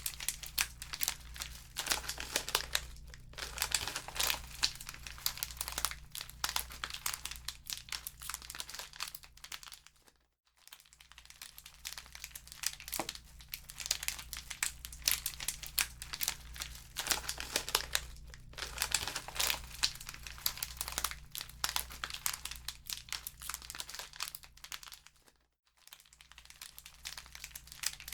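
Wood fire in a fireplace crackling: dense, irregular pops and snaps over a steady low hum, cutting out briefly twice, about a third of the way in and near the end.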